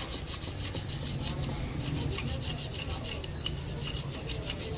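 Fast back-and-forth scraping strokes by hand, about six a second, over a steady low hum.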